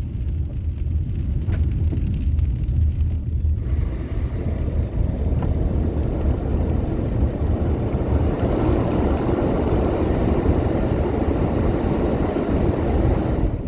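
Inside a moving car in heavy rain: a steady low road-and-engine rumble, joined about three and a half seconds in by a loud even hiss that holds steady.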